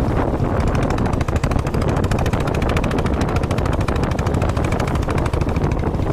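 Motorcycle engine running at a steady speed while riding, a rapid, even train of exhaust pulses over a low rumble.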